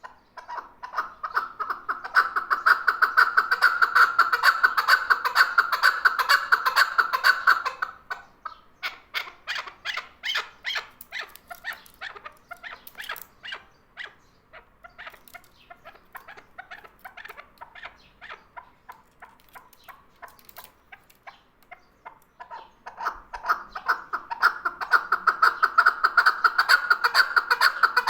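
Male chukar partridge calling: rapid repeated clucking notes that build into a loud, fast run, break into looser separate notes about eight seconds in, go quieter, then build into another fast run near the end.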